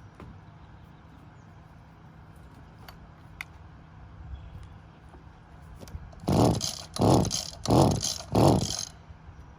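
Four quick pulls on the recoil starter of an old Stihl two-stroke brush cutter, about two thirds of a second apart, turning the engine over without it catching.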